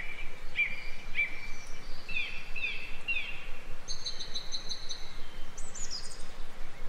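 Songbirds singing in a forest: a series of short repeated chirps, then a quick high trill about four seconds in and a few high falling notes after it, over a steady soft hiss of background ambience.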